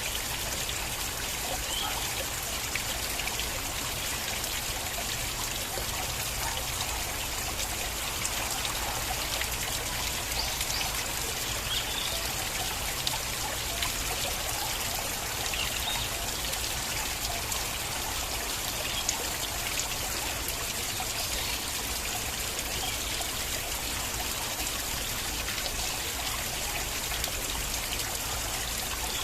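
Stream water flowing and trickling steadily, with small splashes and drips through it.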